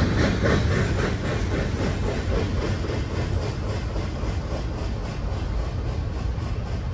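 Double-stack container freight train moving away after its last car has passed: wheels click rhythmically over the rail joints, fading within the first few seconds into a steady low rumble that slowly dies away.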